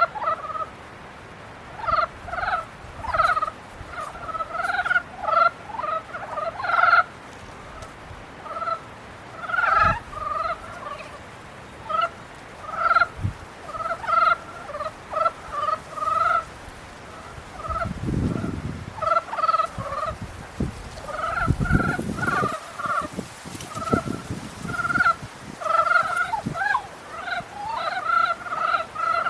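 A chorus of frogs calling during the breeding season: many short croaking calls, repeated and overlapping, run on without a break. Two low rumbles come in about two-thirds of the way through.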